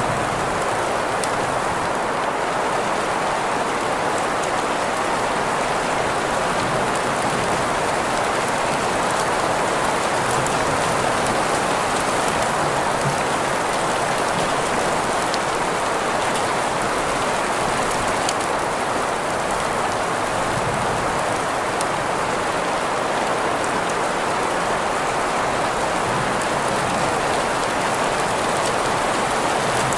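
Steady rain on a surface mixed with green noise, an even hiss centred in the middle pitches, with scattered faint drop ticks.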